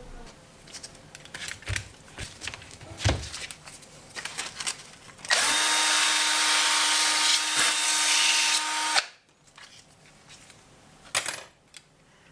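Scattered clicks and knocks of parts being handled, then an electric power tool runs at one steady speed for about four seconds and stops abruptly, followed by a sharp knock near the end.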